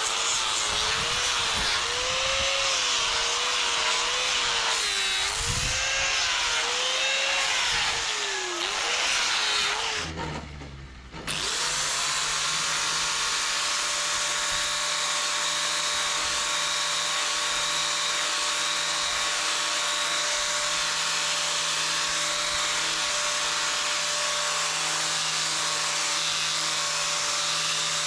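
An electric power tool's motor running, its pitch wavering up and down for about ten seconds. It slows and drops away briefly about ten seconds in, then spins back up and runs on at a steady pitch.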